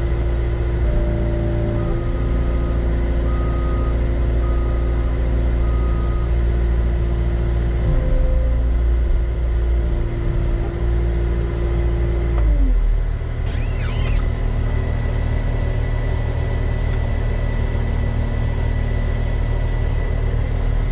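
Heavy diesel engine running steadily, with four short beeps a little over a second apart about two seconds in. About halfway through, the engine note drops as it is throttled back, followed by a brief high squeal.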